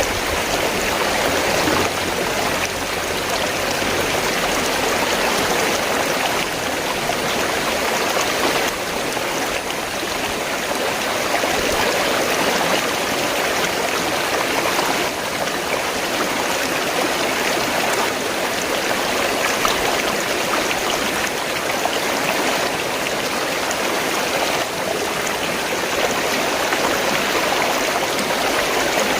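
River water flowing, a steady, continuous rush of moving water.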